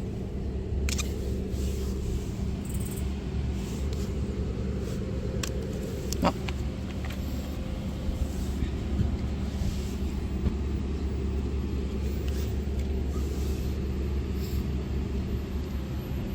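Steady low rumble of an idling motor vehicle engine, with scattered small clicks and one sharper tick about six seconds in.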